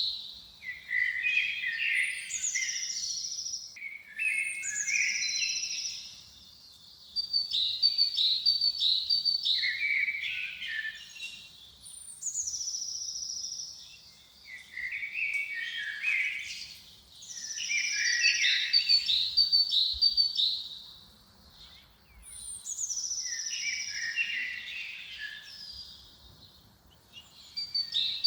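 A songbird singing the same short phrase over and over, about every three to four seconds, with brief pauses between. Each phrase runs from quick repeated high notes into a downward-sliding whistle, then lower warbled notes.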